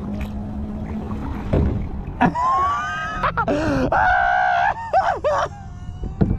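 A man's voice making several drawn-out wordless cries, rising and falling in pitch, starting about two seconds in and stopping about a second before the end, over the low rumble of wind and water.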